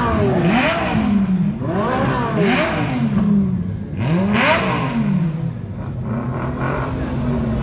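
Sports car engine revved hard three times, about two seconds apart, each rev rising and falling in pitch, then settling to a steady idle for the last couple of seconds.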